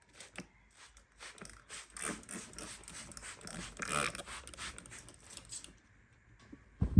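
Rapid light clicks, rustles and scrapes of small objects being handled, lasting about five and a half seconds, then a low thump at the very end.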